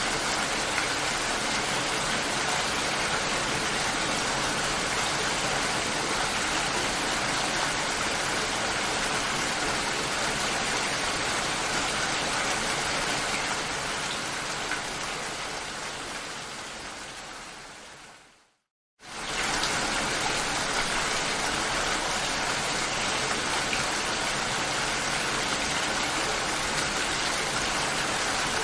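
Steady rainfall hiss. About two-thirds of the way through it fades out over a few seconds to a moment of silence, then comes back at once at full level.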